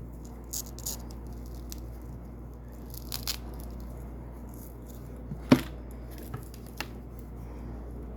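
Double-sided hook-and-loop (Velcro) strips being handled, giving a few short crackling rips with pauses between them. The sharpest, loudest rip comes about two-thirds of the way in. A steady low hum runs underneath.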